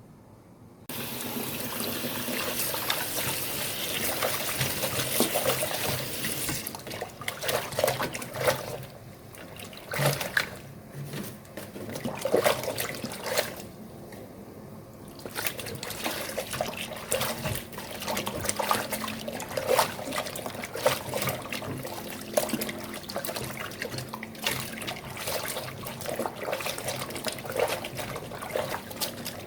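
Water running from a tap, turned on suddenly about a second in, then splashing and short clatters as things are handled under it.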